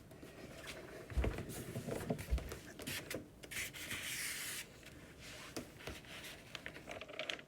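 Shoji paper rustling and rubbing as it is handled and smoothed on the wooden frame, with a longer stretch of rubbing about three to four and a half seconds in, light clicks, and a couple of dull knocks.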